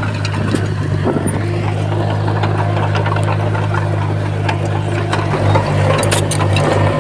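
Komatsu bulldozer's diesel engine running steadily, with scattered clicks and clanks and a short cluster of sharper clanks near the end.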